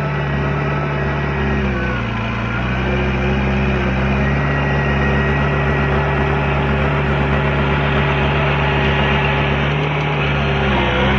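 Heavy diesel engine of earthmoving machinery running steadily, its pitch dipping briefly about two seconds in and again near the end as it takes load.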